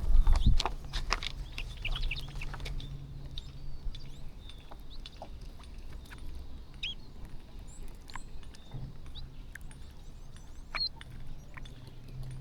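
A flock of small birds chirping in short calls while feeding, with many sharp ticks of beaks pecking at scattered rice, loudest in a dense cluster in the first second. A low steady hum runs underneath.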